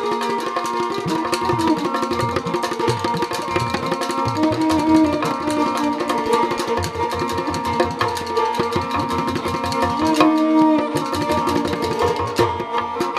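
Rajasthani folk instrumental music: a kamaicha plays the melody over a steady drone, with a morchang (jaw harp) and hand drums keeping a fast, even rhythm.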